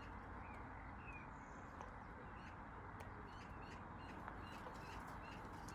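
Faint bird chirping: one short note repeated about twice a second, over a faint steady low background.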